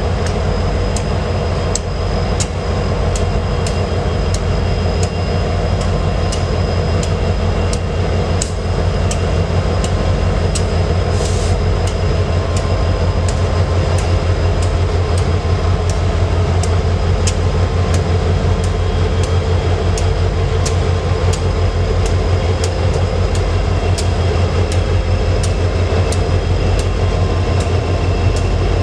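Freight train rolling past, with a steady low rumble and its wheels clicking over the rail joints about twice a second, plus a faint steady high squeal from the wheels.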